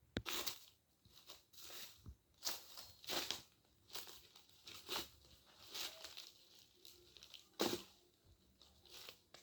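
Irregular crunching and rustling of dry leaves and twigs, a short burst every half second to a second.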